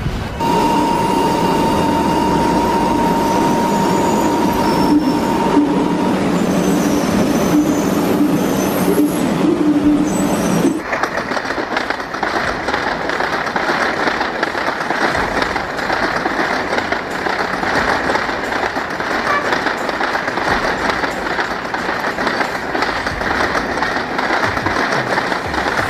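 E6 Shinkansen high-speed train running, with a steady high whine over a rushing hum. About ten seconds in the sound changes abruptly to a steady rushing train noise.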